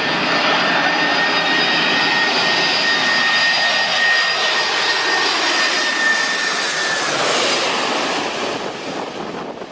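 Jet engines of a large airliner at takeoff thrust, heard from behind in the jet blast: a loud rushing roar with a steady high whine that slides down and fades about seven seconds in as the plane moves away.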